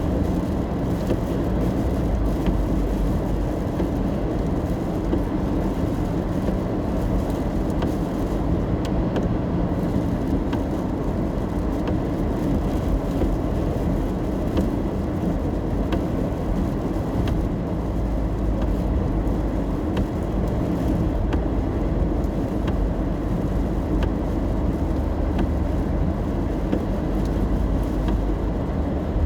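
Car driving in the rain, heard from inside the cabin: a steady low rumble of road and engine noise, with faint scattered ticks of rain.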